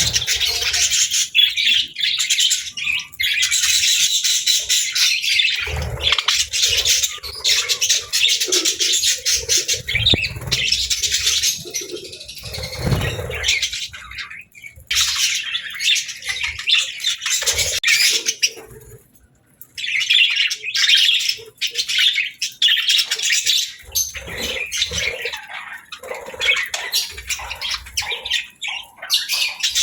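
Pet budgerigars chattering and chirping continuously in a dense, busy warble, with a few low thumps and a brief lull about two-thirds of the way through.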